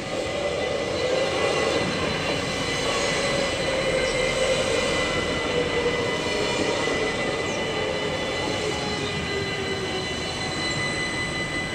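Stadler GTW diesel multiple unit passing over a level crossing: wheels rumbling on the rails and the diesel engine running, its hum sinking slightly in pitch midway through. The crossing's warning bells ring steadily under it.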